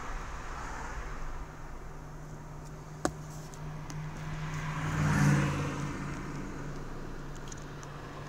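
Ferrari sports car engine swelling as it accelerates past, loudest about five seconds in, then fading away, heard from inside a car over a steady low hum. A single sharp click about three seconds in.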